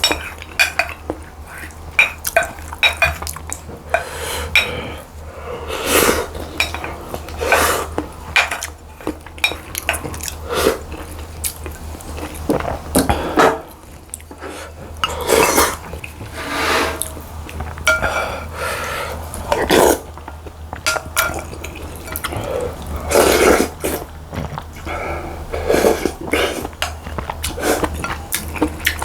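Eating sounds: a spoon and chopsticks clinking and scraping against bowls at an irregular pace, with short wet noises of eating rice and soup, over a steady low hum.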